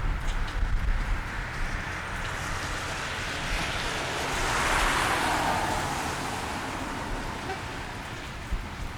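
A car passes on a wet street, its tyre hiss swelling to a peak about five seconds in and then fading, over steady rain.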